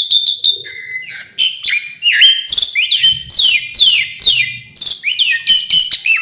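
Jalak suren (Asian pied starling) singing a rapid, varied song packed with mimicked fill-in phrases: loud whistles, many sliding downward, strung together without pause and broken by short clicks.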